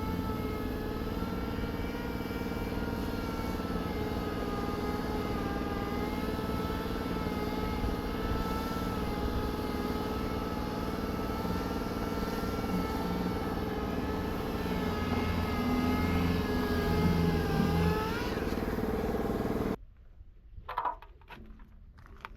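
A motor runs steadily with a wavering whine, swells briefly, then stops abruptly. A few light knocks follow.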